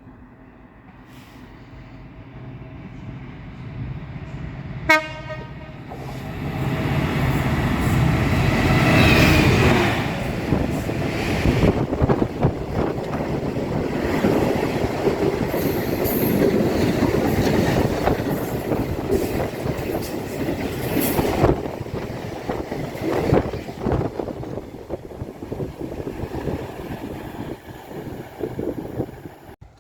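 A train sounds one short horn blast as it approaches, then runs in with loud rumble and wheel clatter that fades away near the end.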